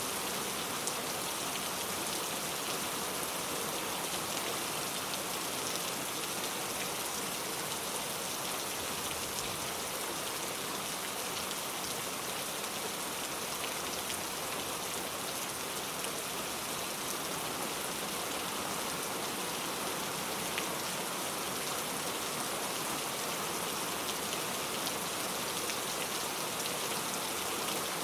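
Heavy rain falling steadily, a dense even hiss of drops on a surface with faint scattered individual drop ticks.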